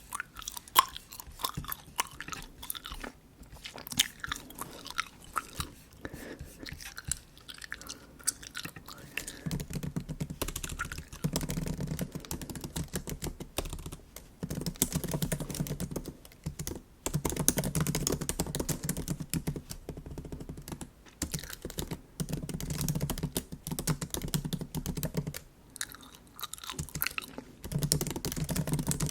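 Close-miked bubble gum chewing: dense, wet smacking and clicking of gum in the mouth. A low rumble comes and goes in stretches from about ten seconds in.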